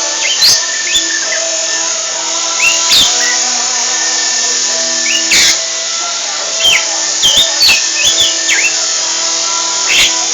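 A lovebird singing: irregular short chirps and quick whistled sweeps, clustered in bursts, over a steady background of held tones.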